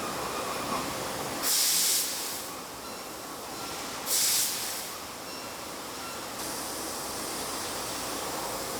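Fiber laser cutting machine at work: a steady machine hiss broken by two short, loud bursts of gas hiss about two and a half seconds apart.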